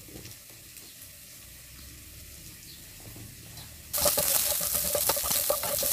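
Faint room noise at first; about four seconds in, chopped green bell pepper sizzles loudly as it fries in oil in a nonstick pan, stirred with a spatula that adds small clicks.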